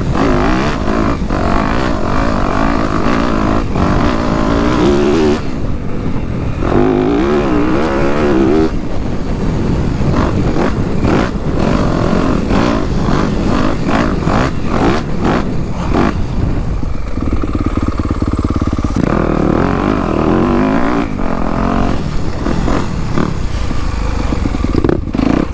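Dirt bike engine being ridden, its pitch rising and falling again and again as the throttle is opened and closed, with many short breaks in the sound.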